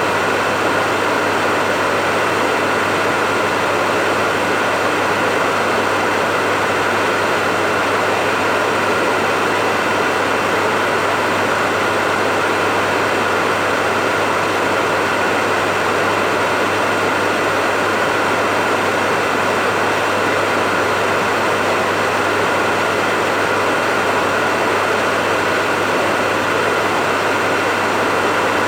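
Hair dryer running steadily: a constant rush of blown air with a steady motor whine and a low hum underneath.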